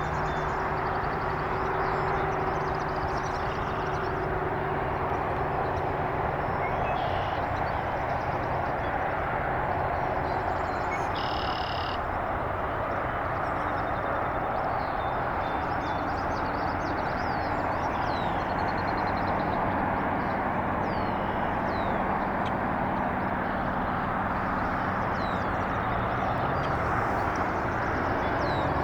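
Steady outdoor rumble and hiss with a faint low hum, over which short high bird twitters and chirps come and go, plausibly from swallows flying around.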